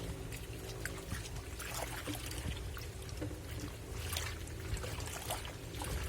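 Black&Decker washing machine running with water sloshing and trickling in the tub over a steady low motor hum.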